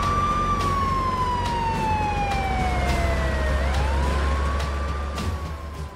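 Police car siren wailing. Its pitch falls slowly, rises again about three and a half seconds in, and levels off near the end, over a low, steady engine sound.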